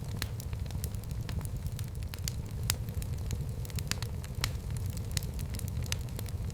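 Wood fire burning in a fireplace: a steady low rumble with irregular sharp crackles and pops, a couple each second.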